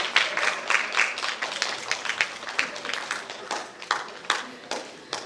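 Audience applauding: a dense patter of hand claps that thins out and fades toward the end.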